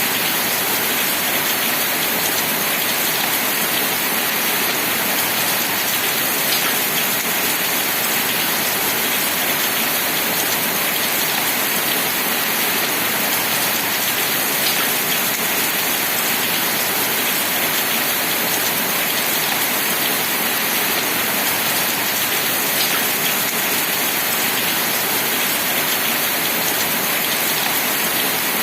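Steady rain falling, a dense even hiss with a few separate drops standing out now and then.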